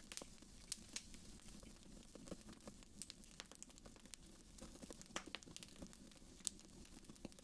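Fireplace fire crackling quietly: irregular sharp snaps and pops over a soft, low, steady rumble of flame, with one louder pop about six and a half seconds in.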